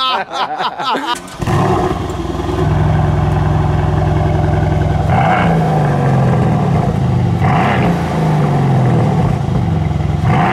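Two men laughing. Then, about a second and a half in, a Mercedes-AMG C63 coupe's twin-turbo V8 fires up with a short flare and settles into a fast idle, probably still a little cold. Three short throttle blips follow, about two and a half seconds apart, through its quad exhaust.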